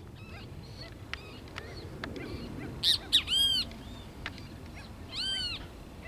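Birds calling: a background of many short chirps, with a few sharp loud calls about halfway through and two clear arched calls, one right after them and one a little past five seconds in.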